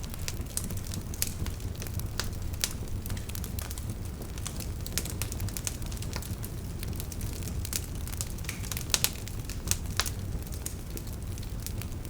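Campfire crackling: irregular sharp pops and snaps over a steady low rumble of burning, with a louder pair of pops about nine seconds in.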